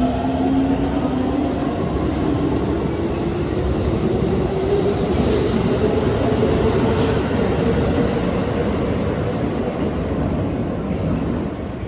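A Keikyu electric train accelerating, its traction motors whining in a rising pitch over the heavy running noise of the train.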